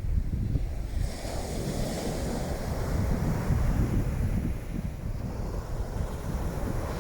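Strong wind buffeting the microphone in gusts, over the wash of small waves breaking on a beach.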